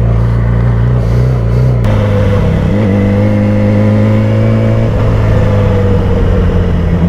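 Motorcycle engine running at road speed, heard from the rider's seat. Its note drops in small steps about two, three and five seconds in, with a low rumble over the first two seconds.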